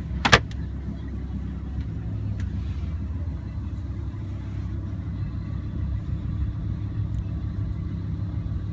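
One sharp click about a third of a second in, then a steady low rumble: the Lamborghini Huracán's 5.2-litre V10 idling, heard from inside the cabin.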